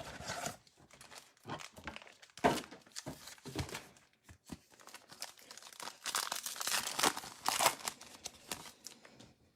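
Trading-card pack wrapper being torn open and crinkled by hand, in irregular rustling bursts with louder stretches near the middle and toward the end.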